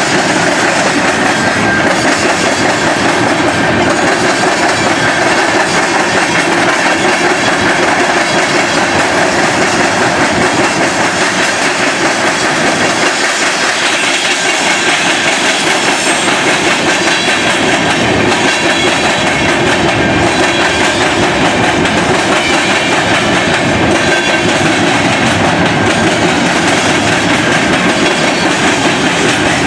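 A freight train rolling past close by, its car wheels clattering steadily over the rails and joints without a break.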